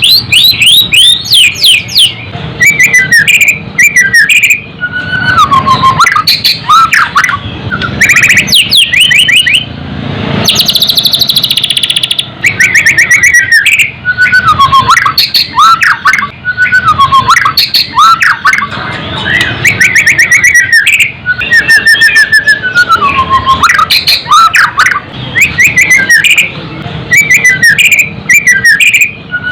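White-rumped shama (murai batu) singing loud and without pause: varied whistled phrases that glide up and down, mixed with fast chattering trills. It is a fighter-style song, meant to rouse other shamas.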